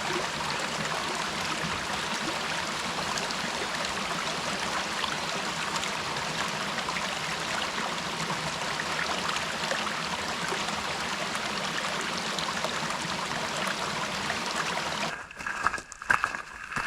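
Creek water running steadily, an even rushing hiss that stops abruptly about fifteen seconds in, followed by a few sharp clicks.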